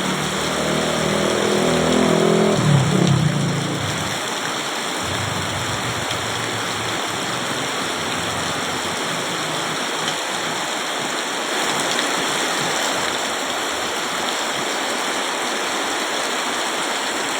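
Heavy rain pouring down steadily, a dense even hiss. A low pitched hum sounds under it for the first few seconds.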